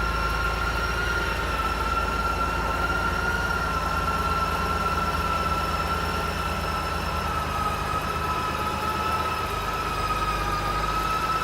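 Steady mechanical running sound: a low hum under a high, steady whine that sinks very slightly in pitch.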